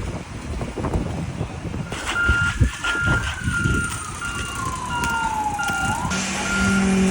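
A truck's reversing alarm beeping steadily, about one and a half beeps a second, over engine rumble, starting about two seconds in. A falling tone slides down under the beeps, and a steady low hum comes in near the end.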